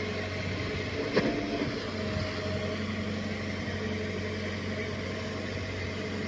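Caterpillar excavator's diesel engine running steadily while working, with a single sharp knock about a second in.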